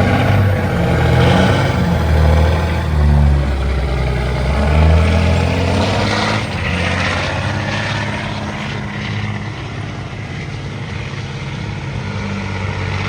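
Big-rig diesel truck engine running hard under heavy load during a run down the track. Its steady note is loudest for the first six seconds or so, then eases slightly.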